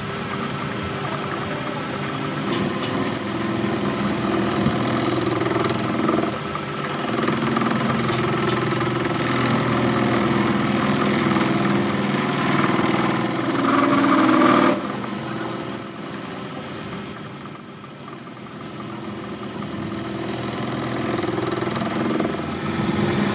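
A power tool's motor running steadily, its loudness wavering as the load changes, with a few brief high-pitched whines through the middle.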